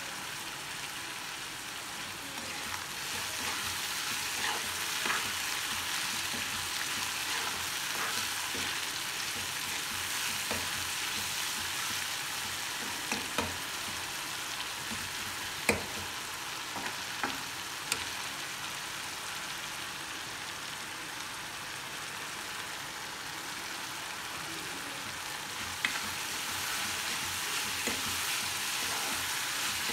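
An onion and tomato masala sizzling steadily in a kadai. A spatula stirs it and knocks against the pan with a few sharp clicks, the loudest about halfway through.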